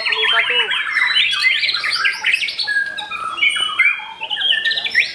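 White-rumped shamas (murai batu) singing in rapid, varied whistled and chattering phrases that run on without pause.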